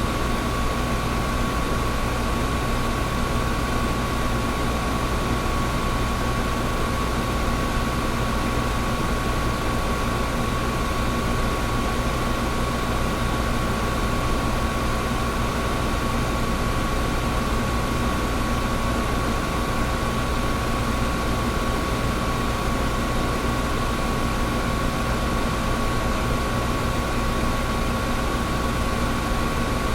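Air conditioner running steadily: an even rush of air with a steady hum and a constant high tone above it.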